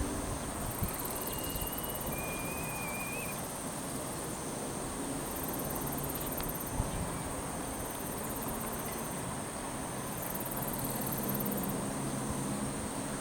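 Outdoor lakeshore ambience: a steady rush of strong wind and water, with insects trilling high in stretches and a short wavering bird call about two seconds in.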